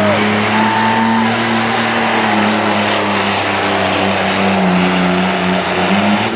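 International super stock pulling tractor's turbocharged engine running flat out under load during a pull, a steady high-revving drone with a thin high whistle over it, dropping away suddenly at the very end as the run ends.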